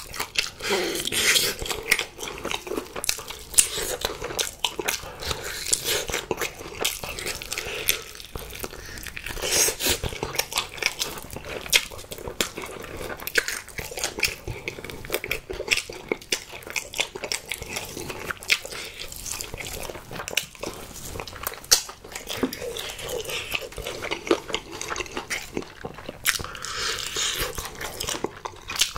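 Close-miked biting and chewing of spicy sauce-coated fried chicken on the bone: crunchy bites and chewing, in dense, irregular clicks throughout.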